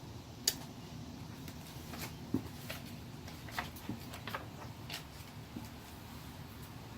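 Scattered light clicks and knocks over a low room hiss, about a dozen in all. The sharpest come about half a second and about two and a half seconds in.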